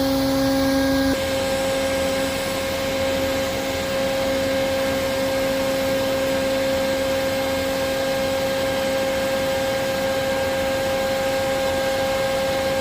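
Vacuum motor running steadily with a constant hum, used for sucking up bees during a hive removal; its tone shifts about a second in.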